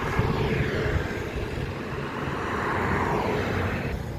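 Motor vehicle noise outdoors, a steady rumble with a vehicle's whoosh swelling and fading about three seconds in, as of traffic passing on a road.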